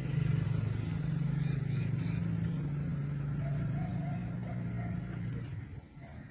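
A steady low motor hum, like a vehicle engine running, that fades away about five and a half seconds in.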